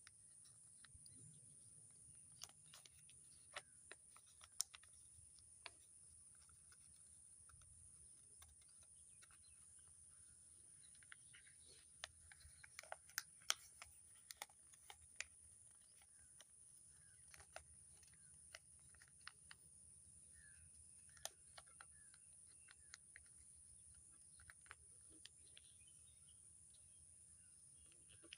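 Faint sheet paper being handled, folded and creased, with scattered sharp clicks and crinkles that come thickest about halfway through, over a steady high hiss.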